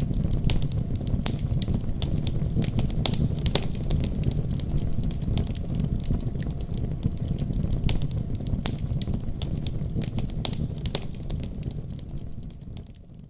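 Fire burning in a fireplace: a steady low rumble of flames with frequent sharp crackles and pops, fading out near the end.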